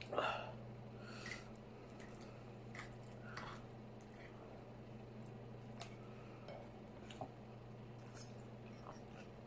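Close-miked chewing and soft wet mouth sounds of someone eating chili cheese fries, with a few light clicks of a fork on the plate. It is faint throughout over a steady low hum, and the loudest moment is right at the start.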